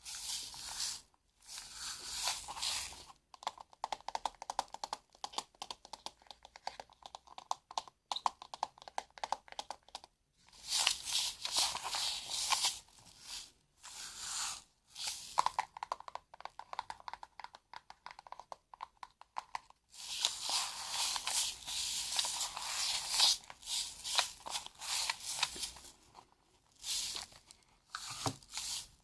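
Close-miked crinkling and rustling of something being handled, in stretches of a few seconds with short pauses between them, and a run of fine rapid ticks near the start.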